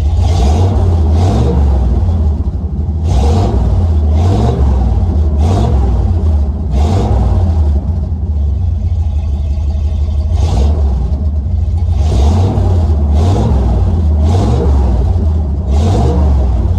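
Truck engine running with a deep, loud rumble, surging briefly every second or two as it is revved or driven.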